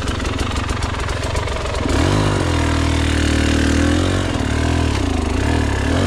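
KTM EXC 300 two-stroke enduro engine running at low revs. About two seconds in it is revved up and held high, then blipped up and down a couple of times near the end.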